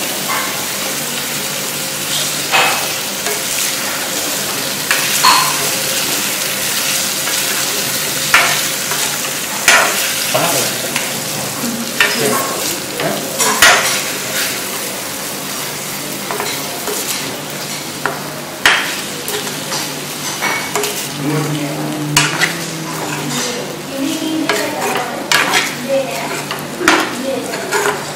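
Raw chicken pieces sizzling in hot oil with onions in a kadai, a steady frying hiss. A metal ladle scrapes and knocks against the pan at irregular intervals as the chicken is stirred.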